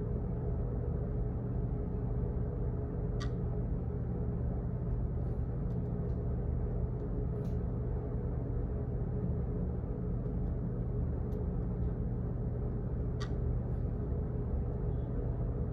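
Steady low hum of office background noise, like ventilation or machinery, with scattered faint clicks and two sharper clicks, about three seconds in and again about ten seconds later.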